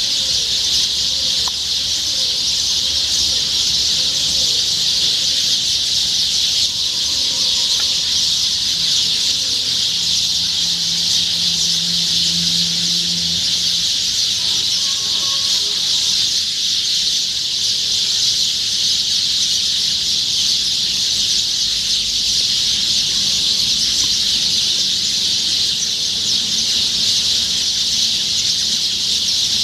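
Morning chorus of many birds chirping at once, blending into a steady, high-pitched wall of sound.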